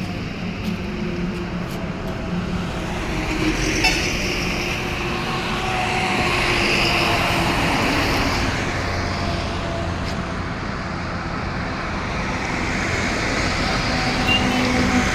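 Motor grader's diesel engine running steadily, a little louder in the middle, with a single knock about four seconds in.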